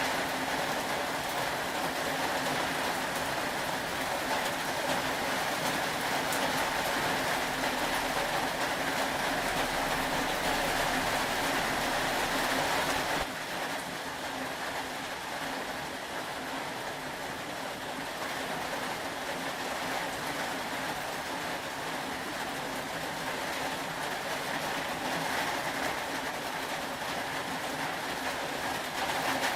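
Steady rain, a constant even hiss. About 13 seconds in it gets slightly quieter and a low rumble under it stops.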